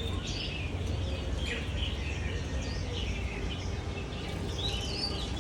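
Many small aviary birds chirping at once: short, overlapping chirps and trills, with a steady low rumble underneath.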